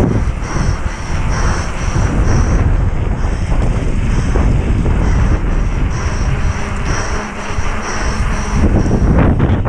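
Wind buffeting the microphone of a mountain bike rider's onboard camera, with the rumble and rattle of the bike riding fast downhill, over a faint high chirping that repeats about twice a second.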